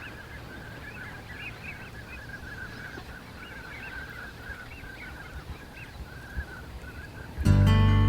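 A flock of geese calling, many honks overlapping in a steady chorus. Acoustic guitar music comes in loudly near the end.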